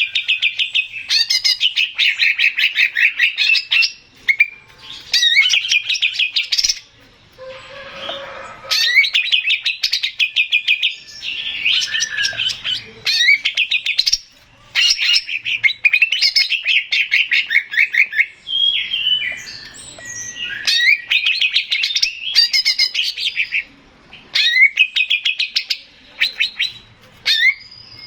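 Male cucak ijo (green leafbird) singing loudly: long phrases of fast, repeated high chattering notes, each a few seconds long, broken by short pauses.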